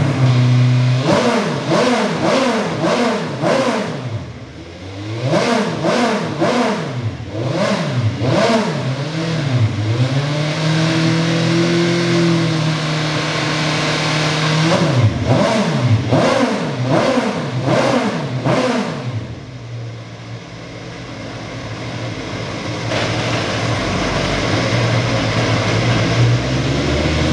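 Lexus SC430 Super GT race car's V8 being revved in bursts of sharp throttle blips, rising and falling quickly. In the middle a rev is held steady for a few seconds. Near the end it settles back to a lower, steady idle.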